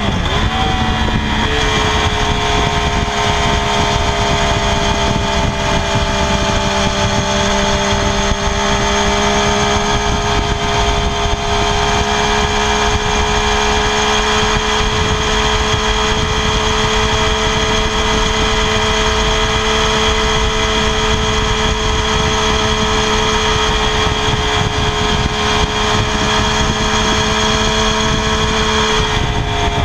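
2016 Triumph Daytona 675R's 675 cc inline three-cylinder engine running through its stock exhaust, held at a steady high engine speed. The pitch wavers briefly at the start and eases slightly lower near the end.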